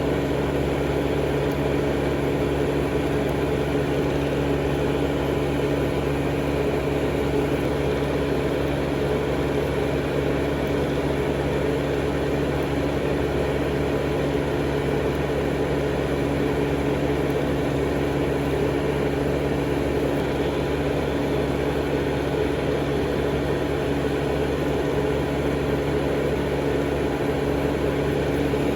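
Steady, unbroken hum of an electric manicure machine's small motor running without pause.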